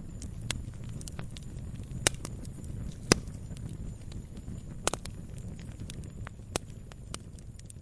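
Campfire crackling: burning wood giving off irregular sharp pops and snaps over a low steady rumble, the loudest pop about three seconds in.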